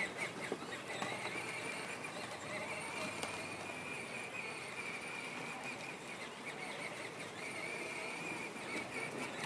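Peg Perego John Deere ride-on toy tractor's 12-volt electric drive running: a steady, slightly wavering high whine with a few faint clicks.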